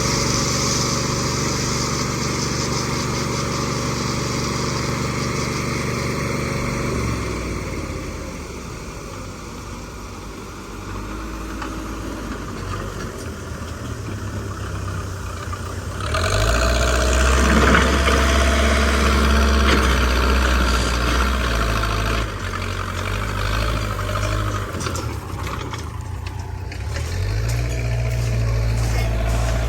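Backhoe loader's diesel engine running. It holds a steady idle for the first several seconds, then drops lower and shifts in pitch. About halfway through it suddenly revs up loud and works hard for several seconds, and near the end the revs climb again.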